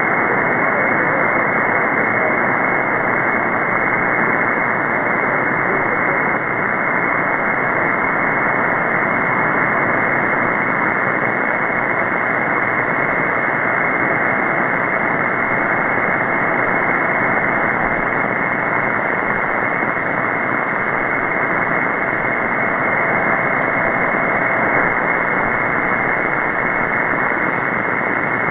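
Shortwave receiver's upper-sideband static on the 20-metre amateur band: a steady hiss squeezed into a narrow voice-width passband, with a faint steady whistle running under it for most of the time and no station coming through.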